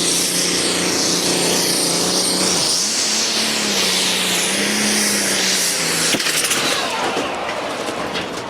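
Pulling tractor's engine running hard at high revs, loud and steady with the pitch wavering slightly. About six seconds in there is a sudden sharp crack, followed by a second or so of clattering as the engine noise falls away.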